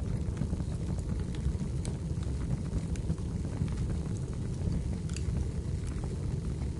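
Wood fire burning in a fireplace: a steady low rumble with scattered sharp crackles and pops, the loudest pop about five seconds in.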